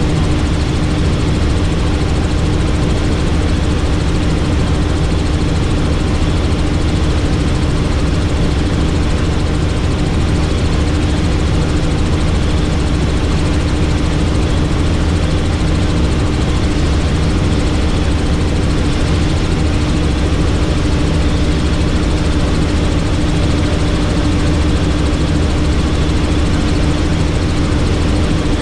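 Helicopter in steady flight: a constant drone of rotor and engine with a low rumble and a steady hum, unchanging throughout.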